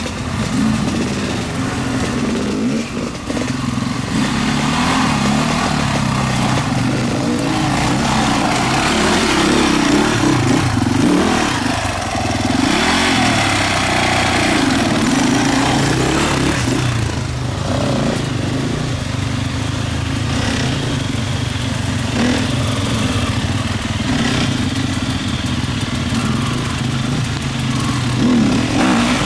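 Motorcycle engines running and revving throughout, their pitch rising and falling repeatedly.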